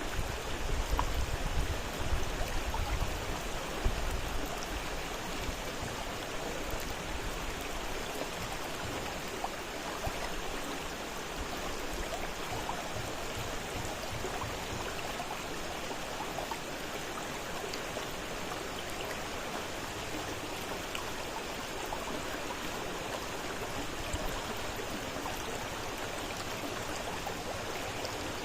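Fast-flowing river rushing steadily, with some extra low rumble and a few louder surges in the first four seconds.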